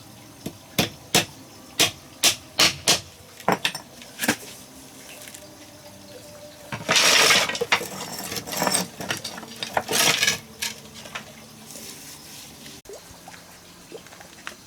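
A series of sharp clinks and knocks, about a dozen in the first four seconds. About seven seconds in comes a loud rush of noise lasting about a second, followed by more clinks.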